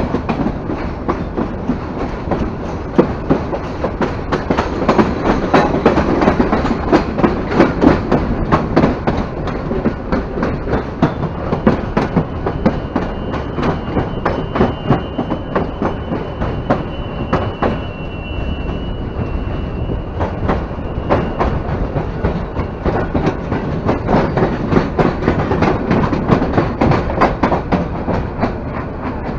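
Bangladesh Railway passenger train running along the track, heard close from the coach itself: a steady rumble with rapid clickety-clack of the wheels over the rail joints. A faint high whine sounds for several seconds midway through.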